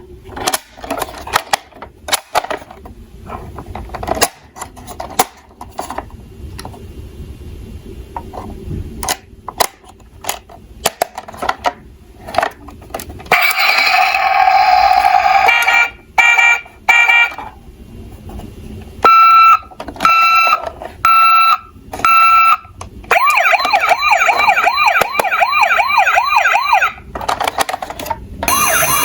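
Light clicking and clattering of plastic toy vehicles for the first half, then electronic emergency-vehicle siren sounds: a steady tone, four short beeps, then a fast warbling wail.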